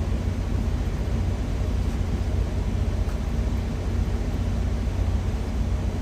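Steady low rumble of an idling diesel truck engine heard inside the cab, unchanging throughout.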